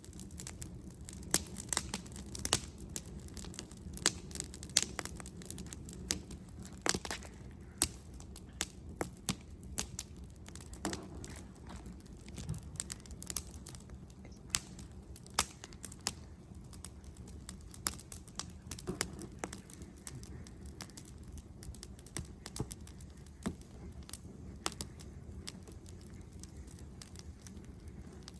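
Wood fire burning in a fire pit: irregular sharp crackles and pops from the burning wood over a steady low rumble of the flames.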